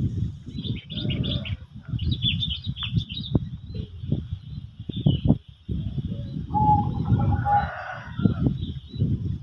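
Small birds chirping in short clusters of quick high notes over an irregular low rumble. A single held note sounds for about a second two-thirds of the way through.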